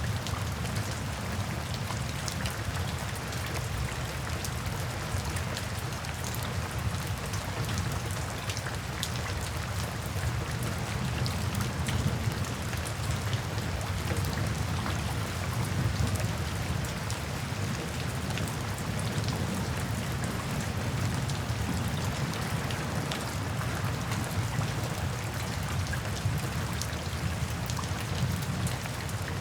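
Steady rain with many individual drops ticking, over a steady low rumble.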